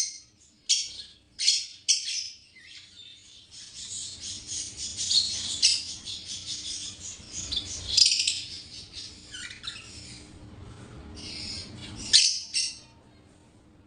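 Pet parrots calling: sharp, short high-pitched shrieks about once a second at first, then a dense run of chirping and chattering from several birds, with two loud calls about twelve seconds in before it quietens.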